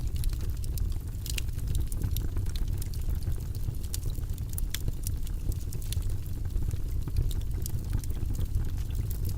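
Fire burning in a fireplace: frequent, irregular sharp crackles and pops over a steady low rumble of flame.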